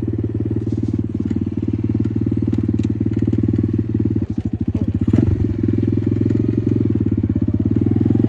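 Apollo RFZ 125cc dirt bike's single-cylinder engine running, its rapid firing pulses steady, then dipping briefly about four seconds in before a quick rev about five seconds in.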